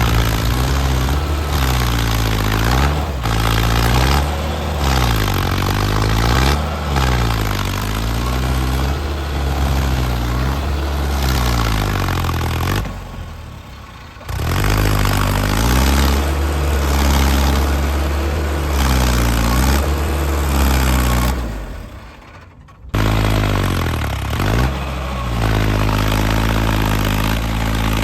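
Diesel tractor engine running and being revved up and down again and again. The sound fades away twice and cuts straight back in.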